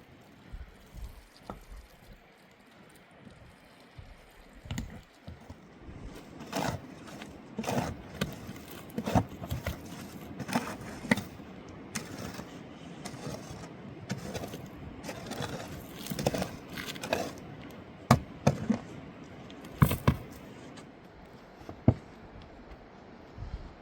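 Irregular scraping and knocking from hands-on work, with sharper knocks about three-quarters of the way through.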